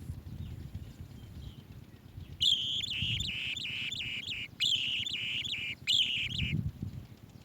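Asian green bee-eater calling: three runs of quick, high chirping notes start about two and a half seconds in, with short breaks between them, and stop a little before the end. A low rumble lies underneath.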